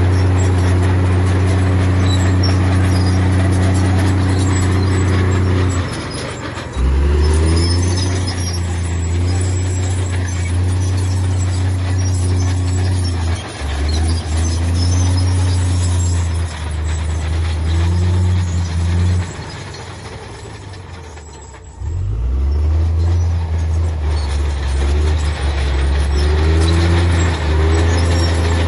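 Heavy diesel engine of earthmoving machinery running under load, its revs dropping about six seconds in and then pulling up again several times. It dies down to a low rumble about two-thirds of the way through before revving back up.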